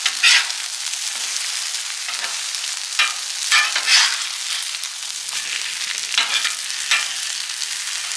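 Breaded chicken cutlets shallow-frying in oil on a flat-top gas griddle: a steady sizzle, with several short, louder bursts as each cutlet is flipped over with a metal spatula and its raw side hits the hot oil.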